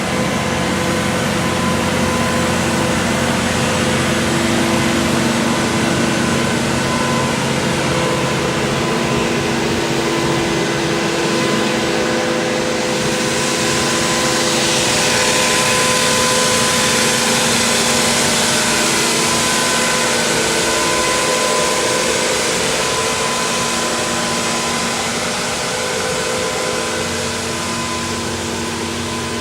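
Truck-mounted concrete pump running steadily, with several steady engine tones and a hiss that swells about halfway through and eases off near the end.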